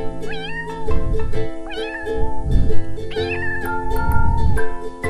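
A domestic cat meowing three times, the last meow the longest, over background music with a steady beat.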